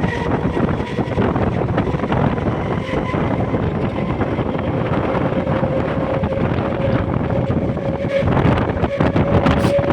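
Express train accelerating: a steady heavy rumble of the running train and rushing wind, with a single whine that rises slowly in pitch as speed builds. It grows louder near the end.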